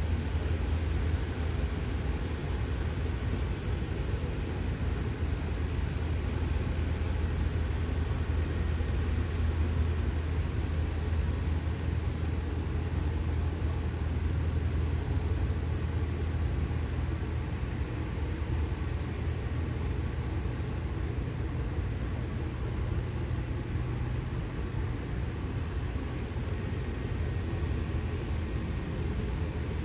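Cessna Grand Caravan floatplane's Pratt & Whitney PT6A turboprop running steadily as it taxis on the water: a constant low hum with a spread of engine and propeller noise over it.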